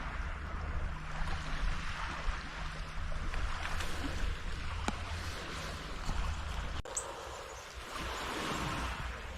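Water sloshing and lapping with wind rumbling on the microphone, a few small knocks among it; the sound changes abruptly about two-thirds of the way through.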